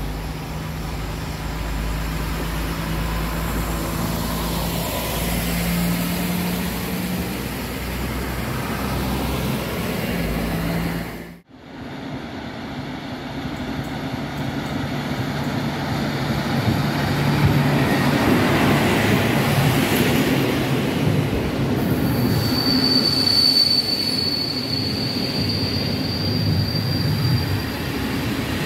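A regional multiple-unit train stands at the platform with a steady low hum. After a sudden cut, a PKP Intercity passenger train approaches and passes close by with a rising rumble and clatter of wheels on rail joints. There is a brief high wheel squeal near the middle of its pass.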